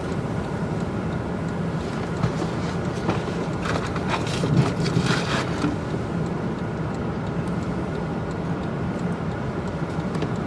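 Steady rumble and hum of a vehicle heard from inside its cabin, with a few brief clicks or rattles around the middle.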